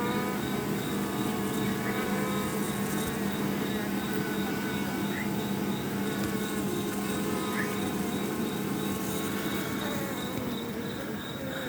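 Honey bee colony buzzing steadily: many bees' wingbeats humming together.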